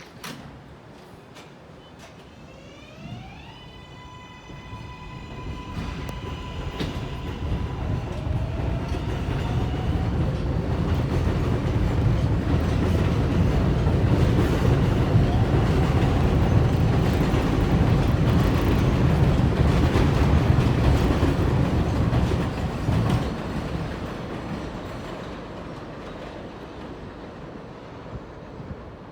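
Kawasaki R188 subway train accelerating: its propulsion whine climbs in pitch and levels off a few seconds in, then the wheels rumble and clack on the track, building to loudest about halfway through and fading away near the end.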